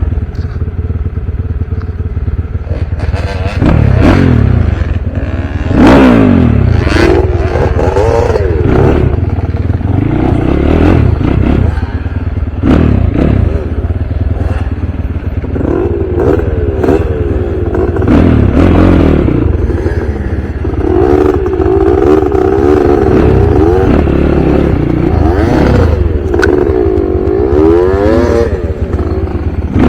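Dirt bike engine revving up and down over and over as it is ridden, its pitch climbing and dropping every second or two, with some clatter.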